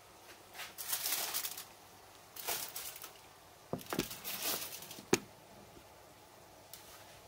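Rustling and scraping strokes from handling the matooke, in three short bursts, followed by a single sharp knock about five seconds in.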